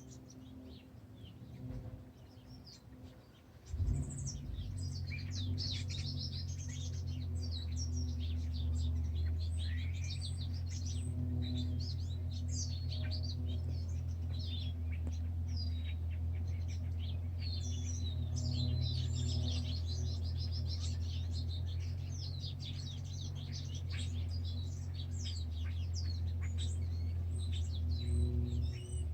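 Several birds chirping and singing in quick, overlapping high calls and trills. A steady low hum runs underneath, starting with a knock about four seconds in.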